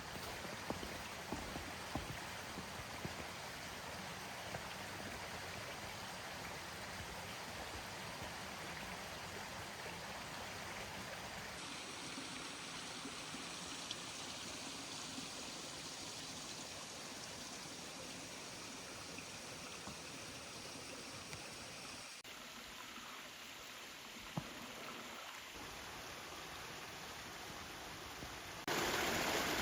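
Mountain stream running: a steady rush of water. Its level and tone change abruptly about 12 and 22 seconds in, and it gets clearly louder near the end.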